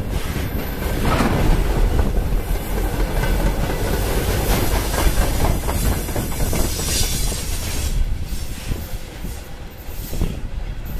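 Freight train wagons rolling past close by, their wheels rumbling and clattering on the rails. The noise falls away after about eight seconds as the last hopper wagons pass and recede.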